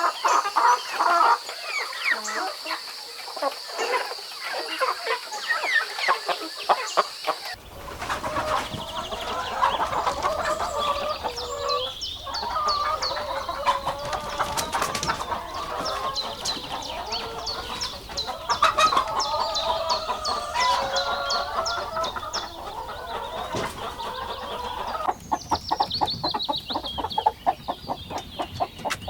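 A flock of chickens clucking, many short calls overlapping, with a steady high-pitched whine behind them at first; the background changes abruptly about seven seconds in.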